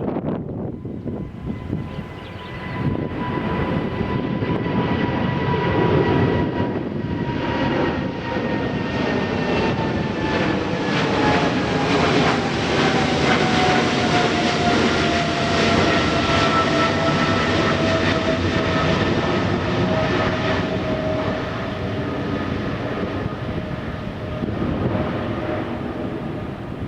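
Jet airliner's engines at takeoff power, growing louder about three seconds in. A whine falls in pitch as the plane passes, then the noise slowly fades.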